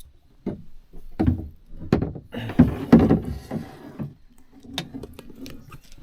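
A run of dull thumps and knocks with rustling, from a freshly landed Murray cod being handled and shifting about, ending in a few sharp clicks.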